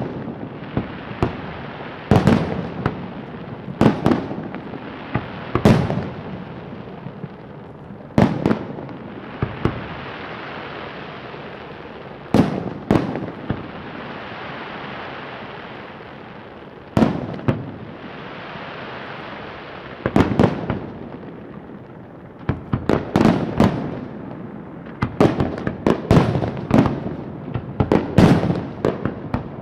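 Fireworks going off: loud single bangs every second or two, each trailing off in a short echo, with a steady hiss filling a quieter stretch in the middle and a quick run of bangs near the end.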